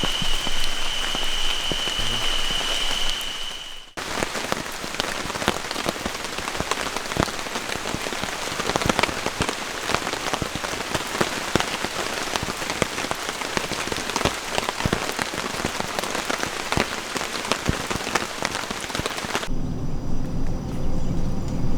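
Heavy rain falling on a tent, a dense, irregular patter of drops striking the fabric over a steady hiss. For the first four seconds a steady high-pitched whine sits over the rain, and near the end the rain gives way to a low rumble.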